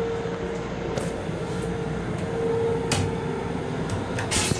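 Steady hum and rumble of an M7 electric railcar, heard inside its small restroom. A few sharp clicks and knocks stand out, with a short, louder burst near the end.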